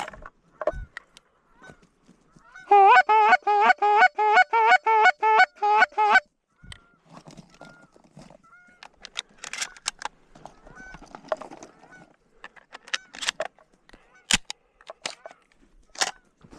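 A rapid run of about a dozen loud Canada goose honks, evenly spaced, followed by scattered light clicks and rustles.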